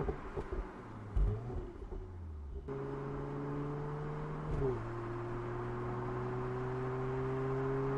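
Mercedes-AMG GLC 43's 3.0-litre biturbo V6 pulling under acceleration, its pitch climbing slowly, dropping once with an upshift a little past halfway, then climbing again. Before the engine sound comes in suddenly, a couple of low thumps are heard.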